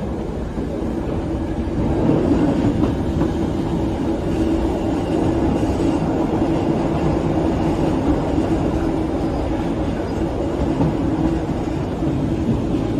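An Eizan Electric Railway train running along the track: a steady rumble of wheels on rails with a low hum, a little louder from about two seconds in.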